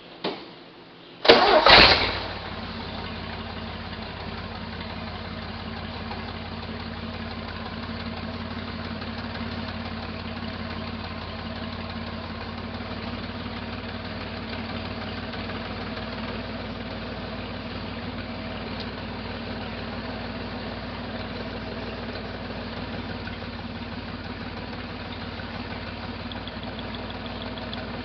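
1968 Jeepster Commando's Buick V6 starting about a second in, with a short loud burst as it cranks and catches, then idling steadily. The engine is misfiring on one rear cylinder.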